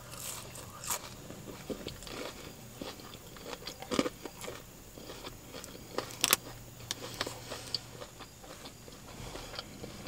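A person chewing and biting food close to the microphone: scattered wet mouth clicks and soft crunches, with a sharper crunch about 4 seconds in and again a little past 6 seconds.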